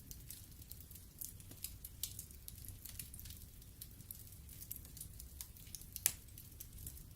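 Wood logs burning in a fireplace, crackling with irregular small pops over a low rumble of the flames, and one louder pop about six seconds in.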